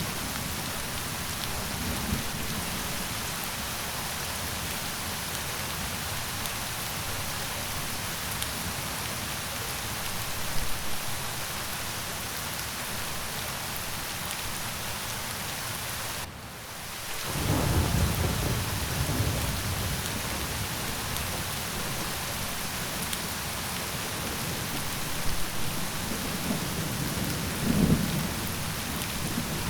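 Steady heavy rain, with low rumbles of thunder: one swells about halfway through, just after a brief dip in the rain, and another comes near the end.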